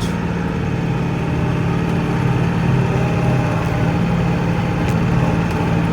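Kioti NX4510 compact tractor's diesel engine running steadily under load while plowing deep snow.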